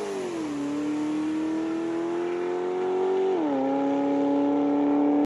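Fifth-generation Chevrolet Camaro's engine at full throttle on a drag-strip pass, its pitch climbing steadily through the gears. There is an upshift about half a second in and another about three and a half seconds in.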